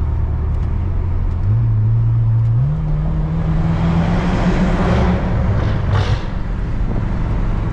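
BMW F10 M5's twin-turbo V8 heard from inside the cabin through a new X-pipe exhaust, the engine note stepping up in pitch twice as it pulls harder and grows louder. A few sharp exhaust pops follow about six seconds in.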